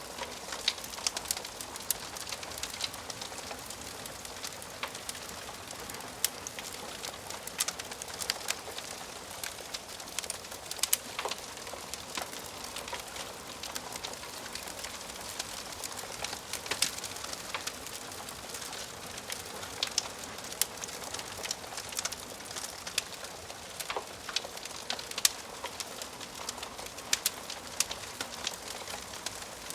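Wood fire crackling in a fireplace: a steady soft hiss with frequent sharp, irregular pops and snaps from the burning logs.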